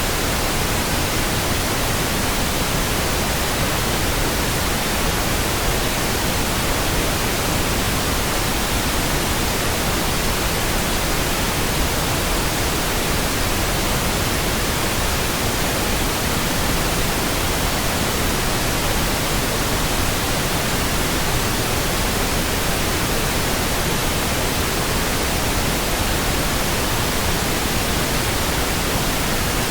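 Steady synthetic pink noise: an even, unchanging hiss with no tones or sudden sounds.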